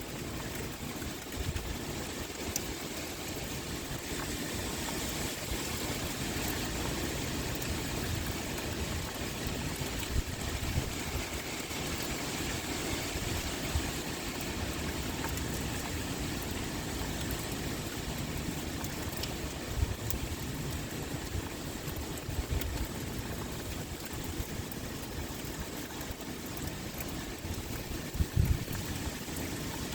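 Steady heavy rain pouring, with a dense even hiss and wind rumbling low underneath. A short low rumble comes near the end.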